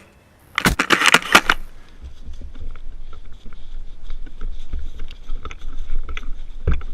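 A quick run of sharp clicks and knocks lasting about a second, then a steady low rumble with scattered small ticks, like wind and handling or movement noise on the camera.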